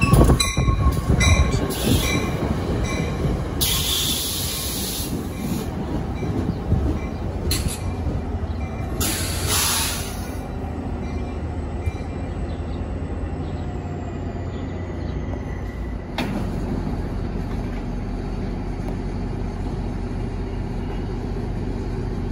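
NJ Transit commuter train of Comet V coaches rolling in along the platform and braking to a stop, its wheels and brakes squealing. Two high hissing bursts come early, and a faint high squeal falls in pitch as the train slows. From about two-thirds of the way through, a steady low rumble sets in with the train standing.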